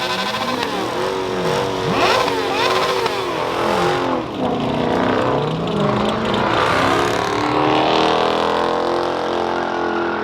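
Several car engines revving hard at once, their pitch sweeping up and down over and over and overlapping, loud enough to be ear-splitting.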